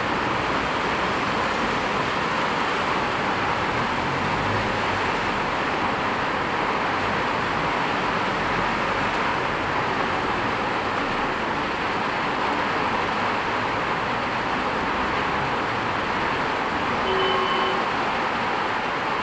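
Heavy rain falling steadily on a street, a constant hiss, with cars' tyres swishing along the wet road.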